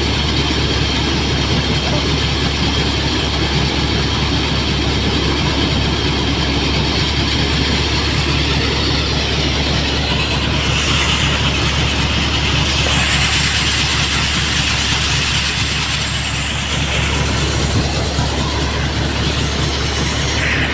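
Tractor-driven threshing machine running, a steady engine drone under load with a continuous mechanical rattle from the thresher. From about 13 seconds in, a louder hiss joins it.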